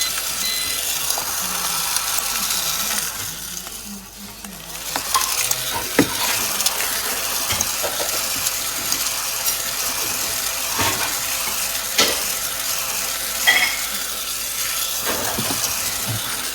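Mini cordless desktop vacuum cleaner running with a steady hiss, sucking up debris from a counter, with a few sharp clicks as particles or the nozzle knock against it. The hiss dips briefly about four seconds in.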